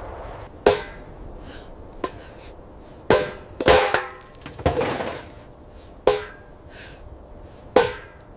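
About seven sharp blows at irregular intervals, each with a brief ringing tone, like a tool striking a hard surface.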